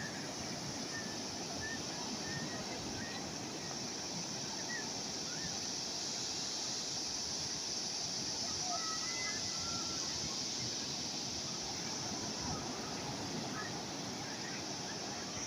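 Calm sea waves washing steadily, an even hiss with no breaking crashes, with a few faint short chirps scattered through.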